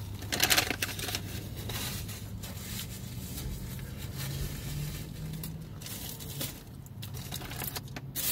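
Chewing of a bite of crispy fried chicken sandwich, with crackly crunches and the crinkle of its paper wrapper, the loudest about half a second in.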